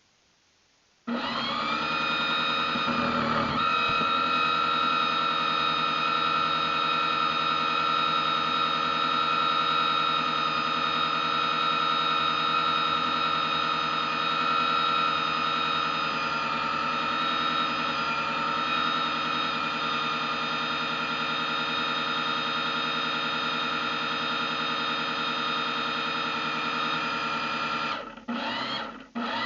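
RC boat motor starting up about a second in, its pitch climbing over the first couple of seconds and then running steadily at high speed with a high whine. Near the end it cuts back twice briefly before picking up again.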